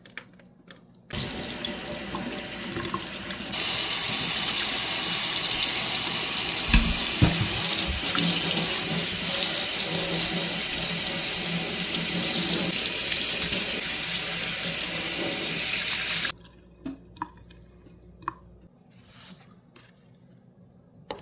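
Water running hard from a faucet, rinsing the dirty inlet water filter screen of a tankless water heater. It starts about a second in, gets louder a couple of seconds later, and is shut off suddenly about three quarters of the way through. A few dull knocks come near the middle.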